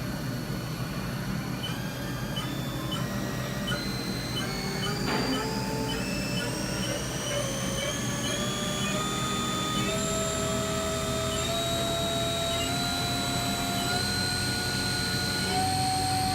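Haas TM-3P CNC mill's spindle running up through its speeds: a whine of several tones that climbs in pitch in small steps, about one step every half second to a second, over a steady low machine hum.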